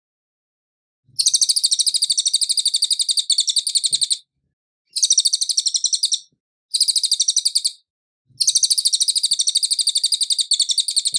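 A cililin singing fast, high-pitched trills of about ten notes a second, in four bursts of one to three seconds separated by short silences.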